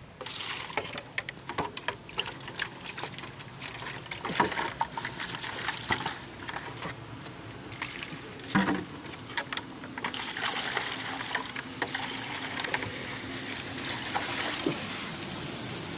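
Water trickling and splashing, with many small clicks and knocks; it sets in suddenly and grows steadier and louder about ten seconds in.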